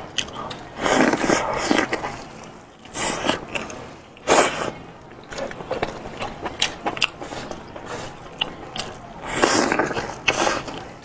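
Close-up mukbang eating sounds: seafood being chewed and crunched in irregular bursts, with a few louder crunches.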